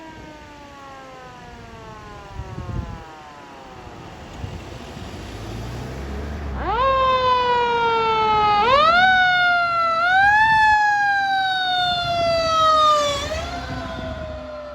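Fire engine siren on an emergency response. About a third of the way in its pitch shoots up and then slides slowly down, four times, with the truck's engine rumbling underneath. It grows loud as the engine passes, then fades away near the end.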